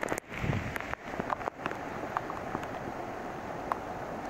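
Steady rain with wind on the microphone, with scattered sharp ticks of raindrops landing close by. The sound cuts out briefly a couple of times near the start.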